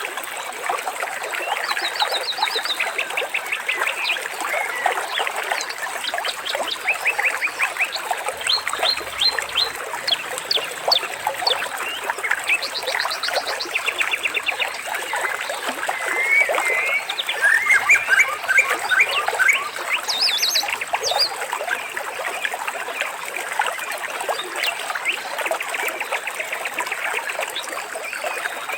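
A dense chorus of birds chirping and trilling over a steady wash of running water, with a flurry of louder calls a little past the middle.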